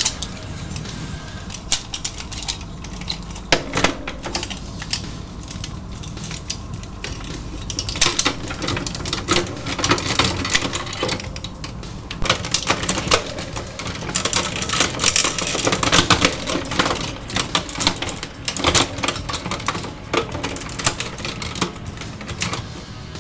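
Hard plastic toy parts clicking and clacking in quick irregular runs as pieces of a DX mecha toy are handled, snapped and locked together.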